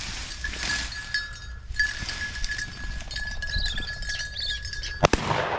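A small bell on a bird dog's collar tinkling as the dog works through cover, a steady ringing note with brighter jingles now and then. A sharp knock about five seconds in is the loudest sound.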